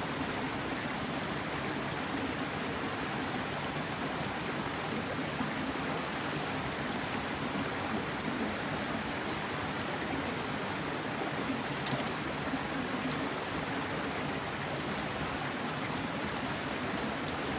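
Stream water flowing and rushing steadily, with one brief click about two-thirds of the way through.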